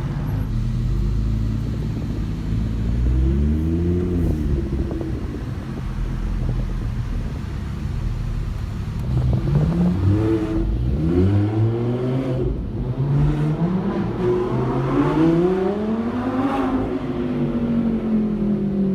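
Supercar engine accelerating hard several times, its pitch climbing and then dropping: once early, in a run of quick rises in the middle, and in one long rise and fall near the end.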